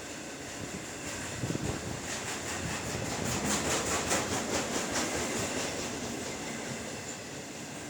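CSX freight train's cars rolling past, their wheels clicking in a fast, even rhythm over the rail joints. The clicking swells about two seconds in and fades again toward the end, over a steady rumble.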